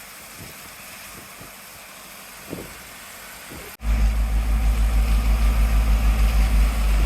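A heavy truck's diesel engine running steadily at idle, a loud low pulsing rumble that cuts in abruptly about halfway through, after a quieter stretch of steady hiss.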